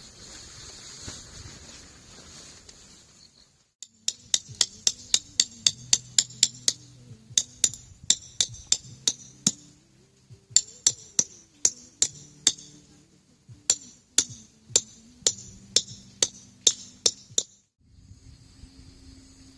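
Hammer blows, about two to three bright ringing strikes a second, in runs with short pauses between them, typical of driving tent pegs into the ground. A steady high insect drone is heard before the strikes begin and again near the end.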